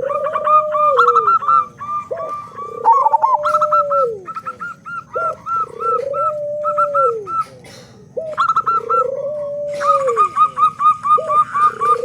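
Zebra doves (perkutut) singing: a long, arching coo about every three seconds, with quick runs of short, higher cooing notes in between.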